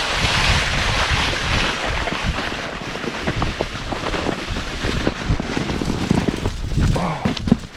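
Snowboard sliding down a snowy slope: a steady rushing hiss of the board on snow mixed with wind across the microphone, slowly fading. Scrapes and knocks come in the second half, with a sharp loud thump just before the end.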